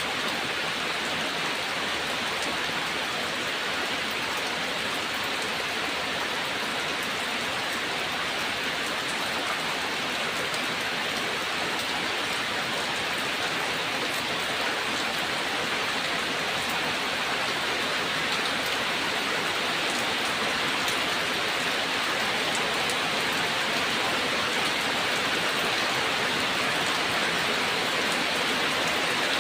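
Steady rain: an even hiss of falling drops with faint ticks of single drops, growing slightly louder toward the end.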